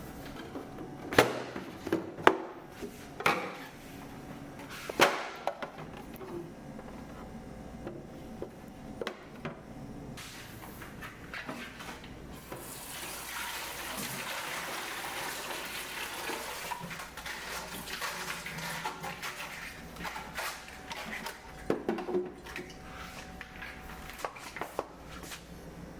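Sharp knocks and clatter of items being handled, then a kitchen tap running into the sink for several seconds from about ten seconds in, followed by more knocks.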